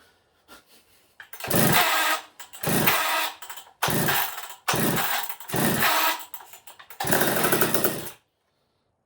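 McCulloch Pro Mac 55 two-stroke chainsaw being pull-started from cold: about six loud cranking bursts on the starter cord, each under a second, with the engine not staying running after the last.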